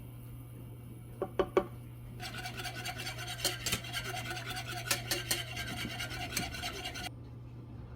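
A few quick knocks, then about five seconds of steady rasping and scraping, full of small clicks, that stops abruptly, over a steady low hum.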